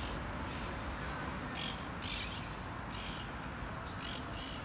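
Birds giving short, harsh calls, about seven spread across a few seconds, over a steady low background hum.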